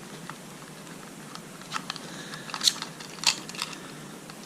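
Small metal clicks and taps as the contact breaker points are worked off a marine engine's distributor, with a few sharper clicks just past halfway.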